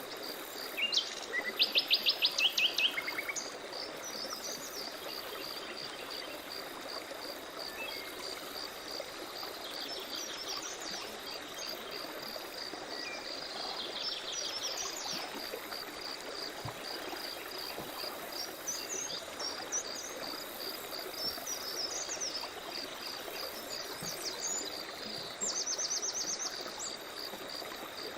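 Forest birds singing, with a loud rapid trill about two seconds in and another near the end, over steady pulsing insect chirring and the rush of a stream.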